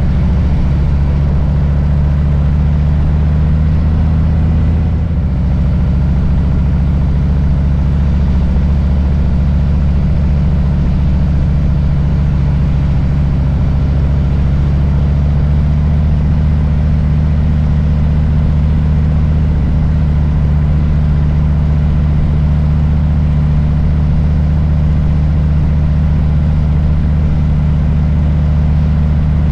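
Harley-Davidson Low Rider S's Milwaukee-Eight V-twin running steadily at low revs, with a brief dip in level and pitch about five seconds in.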